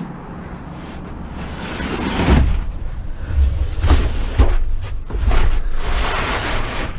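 Wind buffeting the microphone over a low vehicle rumble. It swells in gusts from about two seconds in, with a couple of sharp knocks near the middle.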